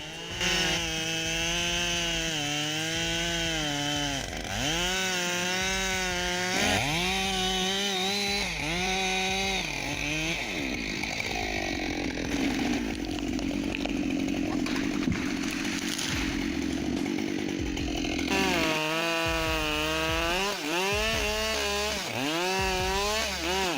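Husqvarna 572 XP two-stroke chainsaw cutting wood: the engine's pitch dips and recovers over and over as the chain bites and frees. For several seconds in the middle the pitch falls and holds lower and steadier.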